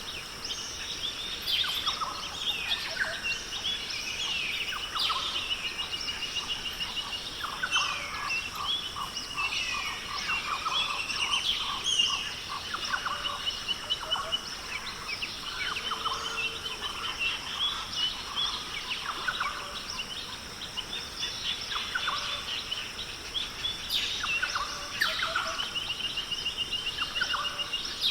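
Australian rainforest bird chorus: many birds calling over one another, with chirps, short whistles and repeated rapid trills, over a steady high-pitched drone.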